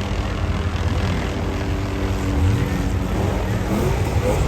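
Car engines running in a steady low drone, one revving up with a rising pitch about halfway through and another near the end.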